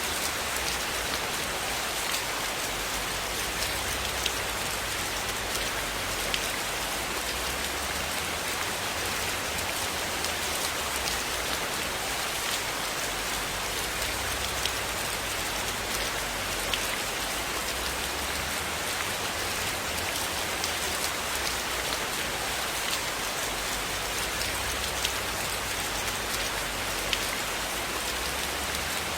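Steady rain falling on a hard surface, with scattered sharp ticks.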